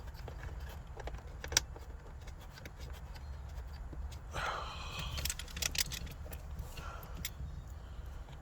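Scattered small metallic clicks and rattles of screws and a hand tool as the shifter's mounting screws are driven in by hand, busiest about four to five seconds in, over a low steady hum.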